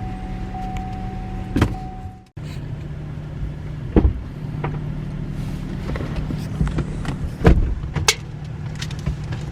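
Steady low hum of a vehicle, heard from inside its cabin, with a few sharp knocks or clicks. A faint steady tone stops about two seconds in, where the sound briefly drops out.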